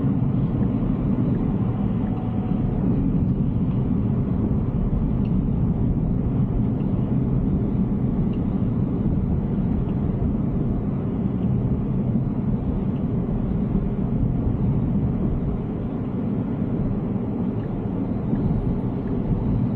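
Steady road and tyre rumble inside the cabin of a moving Tesla Cybertruck, an electric truck with no engine note.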